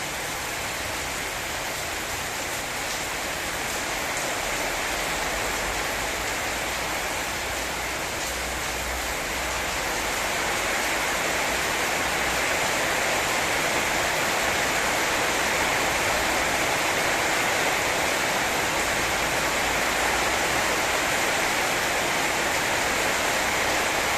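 Heavy rain pouring steadily in a rainstorm, growing a little louder about ten seconds in.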